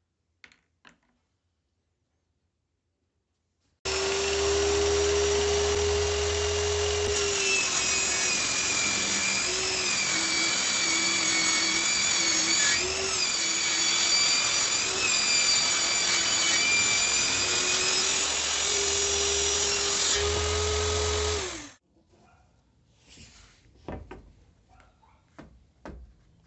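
Electric wood router starting about four seconds in and running at a high whine, its pitch sagging and wavering as it cuts into wood, then rising again as it runs free. It switches off near the end with a falling pitch, followed by a few light knocks.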